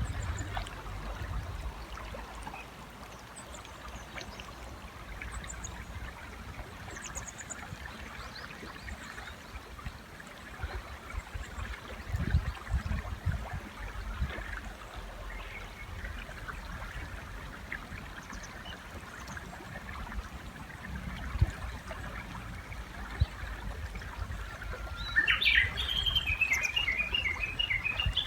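River water flowing steadily, with faint high chirps of small birds. About three seconds before the end a Japanese bush warbler sings loudly: a long held whistle, then a quick run of higher repeated notes.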